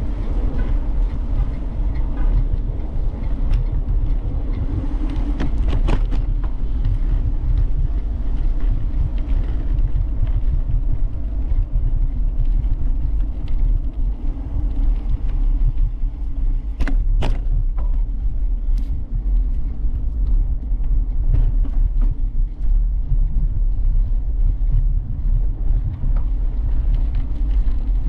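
Steady low rumble of wind buffeting the microphone of a camera riding on a moving bicycle, with tyre noise underneath. A few sharp clicks or rattles stand out, about six seconds in and twice around seventeen seconds in.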